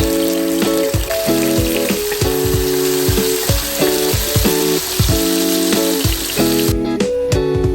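Food frying in a pan with a steady sizzle, over background music. The sizzle cuts off suddenly near the end, leaving only the music.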